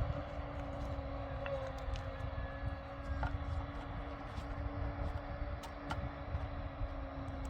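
A motor or engine running with a steady hum over a low rumble, with a few faint light clicks.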